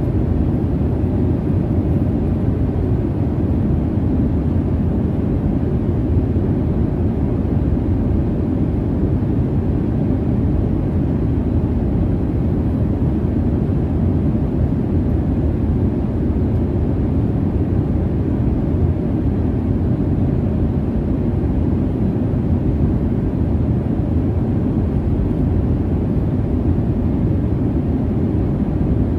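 Steady, low jet-airliner cabin drone: engine and airflow rumble heard from inside the passenger cabin in flight, unchanging throughout.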